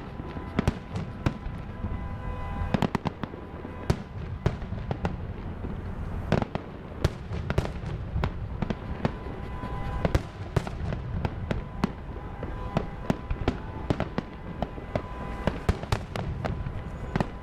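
Fireworks display: a rapid, irregular run of sharp bangs and crackles over a steady low rumble.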